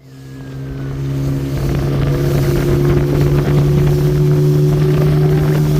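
A motor running steadily with a constant low hum, fading in over the first second or so and then holding at a steady level.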